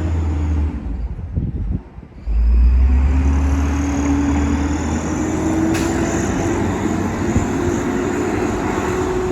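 Burrtec refuse truck's engine revving hard: a loud low rumble that dips briefly about two seconds in, then comes back louder with its pitch climbing slowly.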